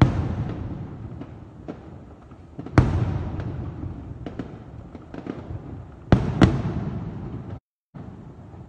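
Aerial firework shells bursting: a loud bang at the start, another about three seconds in and a quick pair about six seconds in, each trailing off in a low rumble, with small pops and crackles in between.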